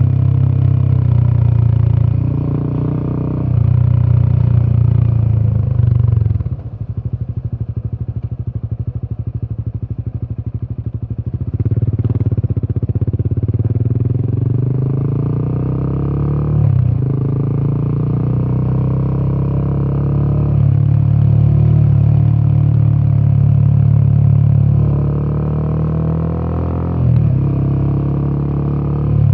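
Royal Enfield Himalayan 450's single-cylinder Sherpa 450 engine and exhaust running on the road. About six seconds in the throttle closes to a quieter, evenly pulsing stretch for some five seconds. Then the revs climb again and fall back sharply twice, as on upshifts.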